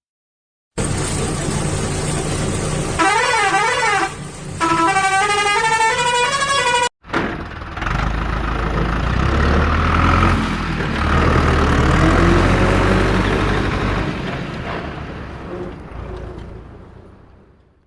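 Truck musical horns sounding over traffic and engine noise: a warbling up-and-down tone, then a stepped multi-note tune. After a sudden cut, a deep truck engine rumble with fainter horn tones rises and then fades away near the end.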